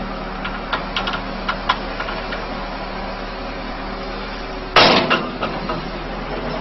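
Tractor engine running steadily under load while the tractor works itself onto a dump truck, with a few light knocks in the first couple of seconds. A single loud, heavy bang with a short ringing tail comes a little before five seconds in.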